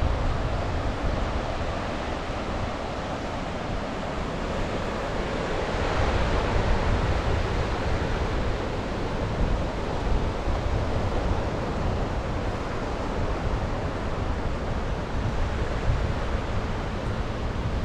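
Sea waves washing onto the shore, with wind buffeting the microphone; a wave surges a little louder about six seconds in.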